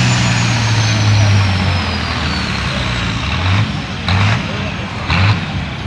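Turbocharged diesel pulling tractor engine winding down, with a thin high turbo whine that falls steadily over the first couple of seconds. It is followed by a few short blips of revving.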